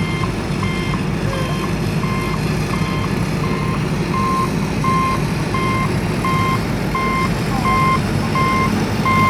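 Vehicle reversing alarm beeping steadily, about one and a half beeps a second, over a steady low rumble.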